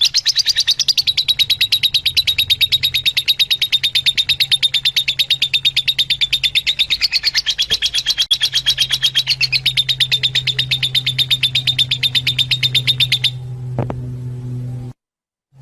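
A bird's rapid, even, high-pitched trill of about ten notes a second, kept up without a break for some thirteen seconds and then stopping, over a steady low hum. It is birdsong used to stimulate Fischer's lovebirds to breed.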